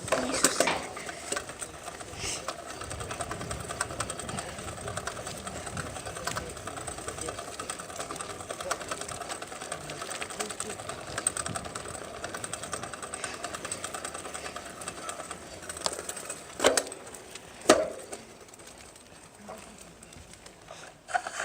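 Bicycle drivetrain ticking rapidly and steadily, the sound of a freewheel hub clicking as the bike coasts. Two sharp knocks come near the end, and after them it is quieter.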